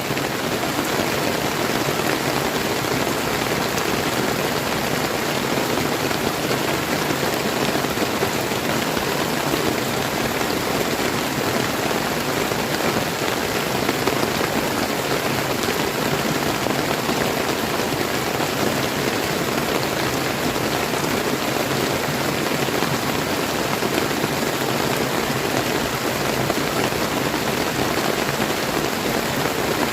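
Steady rain falling on a clear, flowing river, an even rushing patter with no breaks.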